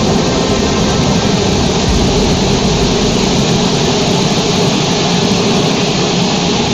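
Jet airliner engines running with a loud, steady noise that does not change over the few seconds.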